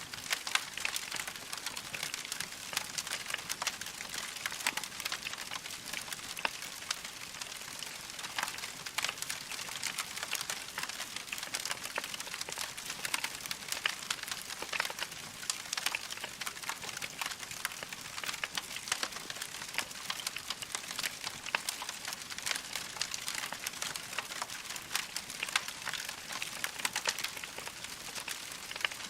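Log fire crackling steadily, a dense run of small sharp pops and snaps over a soft hiss.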